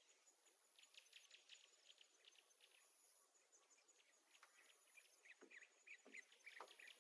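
Near silence, with faint, scattered short high chirps and ticks that come thicker in the second half.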